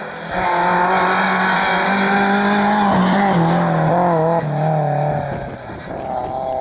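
A rally car's engine running hard at high revs as the car goes past on the stage, the note dropping in steps twice through the middle, with some tyre squeal.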